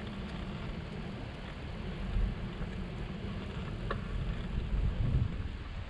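Wind buffeting the microphone, a low, unsteady rumble over faint outdoor background noise, with one short tick about four seconds in.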